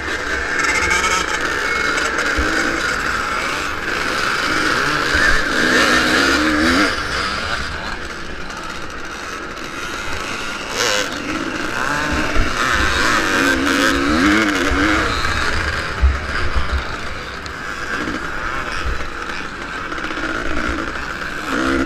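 Vintage motocross motorcycle racing: the engine revs rise and fall repeatedly as the bike accelerates and backs off, over a steady rushing noise and low thumps.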